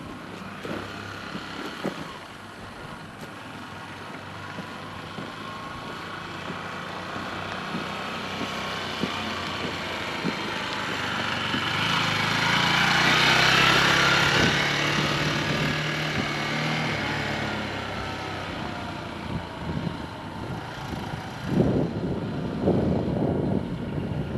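A motor vehicle approaches and passes, growing louder to a peak about halfway through and then fading away. Near the end, wind buffets the microphone.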